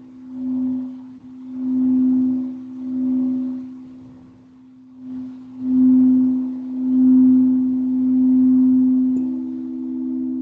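Singing bowl sounding a sustained low tone that swells and fades every second or two. A higher tone comes in more strongly near the end.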